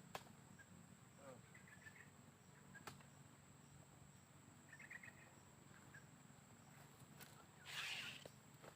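Faint outdoor ambience: a steady high insect drone, with two brief runs of quick, faint bird chirps, a few sharp clicks, and a short rustle near the end.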